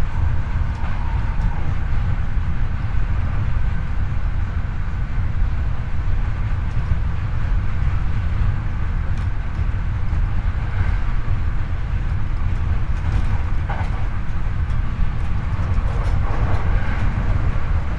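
Hankyu 8300 series electric train running at speed, recorded from the car floor over a bogie the uploader calls abnormally noisy: a loud, steady rumble of wheels and running gear with faint tones above it.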